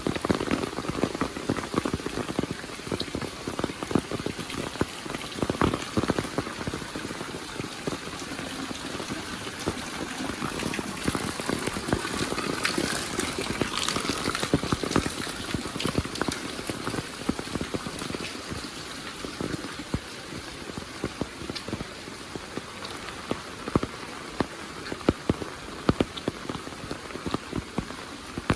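Heavy rain falling steadily, with many close drops striking as sharp taps over a dense hiss. The hiss swells for a few seconds about midway.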